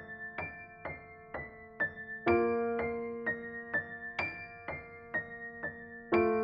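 Soft background music: a gentle piano melody of single notes, about two a second, over a sustained chord struck every few seconds.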